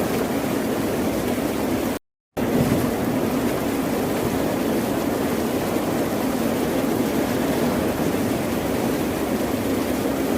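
Steady, unbroken wash of ocean waves and surf. It cuts out to dead silence for about a third of a second around two seconds in, then resumes.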